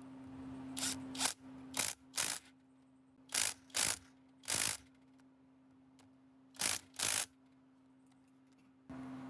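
Ratchet wrench being worked in short strokes, each stroke a quick burst of clicks, mostly in pairs of two strokes close together with pauses between.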